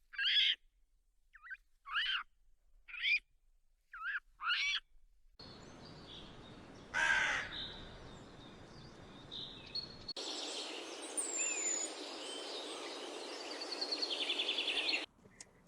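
Bird calls: a run of short, sharp calls about once a second, then, after abrupt cuts, a single louder call over background hiss, and chirps ending in a fast trill.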